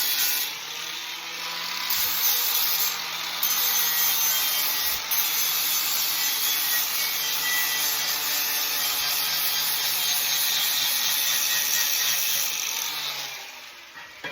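Power grinder abrading the steel tubing of a roll cage, cleaning it to bare metal for welding: a steady, loud grinding hiss with a faint motor hum, lightening briefly now and then, that stops about a second before the end.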